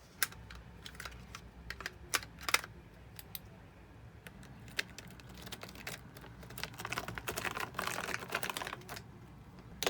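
Typing on a computer keyboard: a few scattered key clicks at first, then a quick, dense run of typing in the last few seconds.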